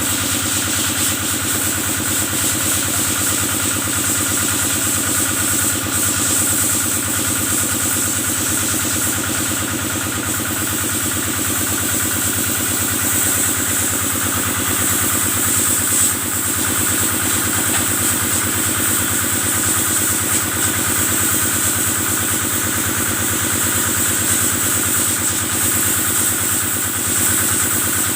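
Kubota engine running steadily at a constant speed, driving the water sprayer used to wash cattle, with a steady high hiss over it.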